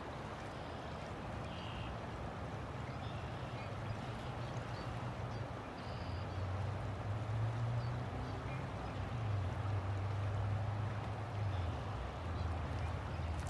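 River water flowing in a steady rush, with a low rumble that grows stronger about halfway through.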